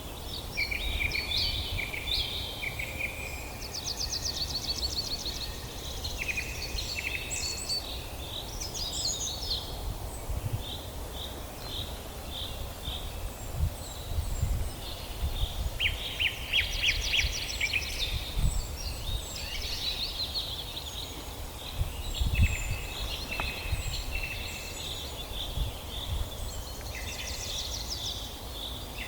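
Several songbirds singing in a forest, their songs overlapping: fast trills, rapid runs of repeated notes and short chirps, some stretches busier than others. A low rumble with occasional low thumps runs underneath.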